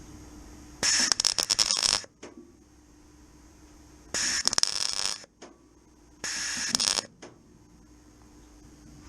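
MIG welder tack-welding steel: three short crackling bursts of arc, each about a second long, with pauses between them.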